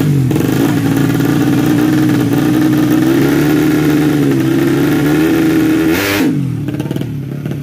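Tuned four-stroke underbone drag-bike engine held at high revs, its pitch wavering up and down. About six seconds in it gives a sharp loud blip, then the revs fall away quickly.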